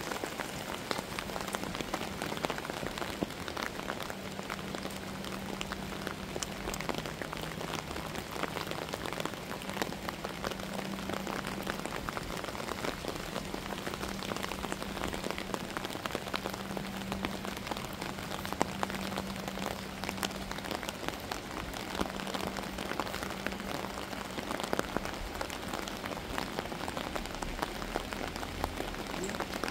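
Steady rain falling, with a dense patter of drops hitting surfaces. A low hum comes and goes underneath and fades out near the end.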